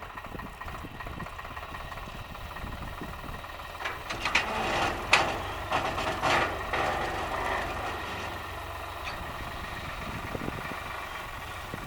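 Tractor engine running steadily at low revs, with a louder spell of sharp clattering knocks from about four to seven seconds in.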